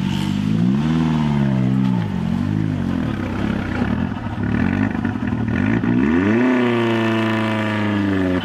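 Off-road 4x4's engine revving up and down a couple of times, then climbing to high revs about six seconds in and holding there, as the vehicle struggles under load in a deep mud hole.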